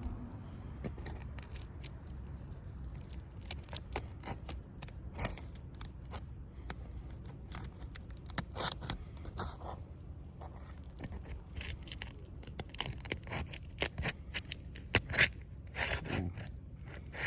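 Asphalt shingles being pried up off a roof, with repeated scraping and crackling as the sealed tabs break loose. This is a repairability test for brittleness and mat transfer.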